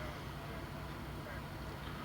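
Vehicle engine idling, a steady low rumble with a slight pulse under a faint hiss.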